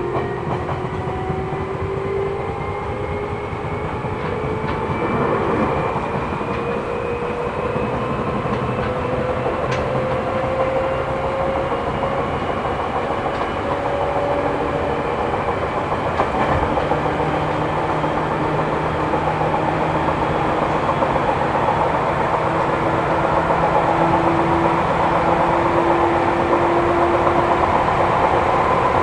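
Seibu New 2000 series electric train heard from inside the car while running at speed: a traction-motor whine rises slowly in pitch over the first half as the train gathers speed, then holds steady, over continuous wheel and rail running noise with clickety-clack. The uploader notes that the car's wheels have flats, which adds to the wheel noise.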